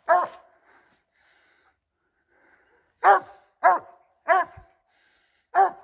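Treeing Walker coonhound barking treed at a sycamore den tree, a sign the hound has a raccoon up that tree. One bark at the start, then after a pause three quick barks and another near the end, each dropping in pitch.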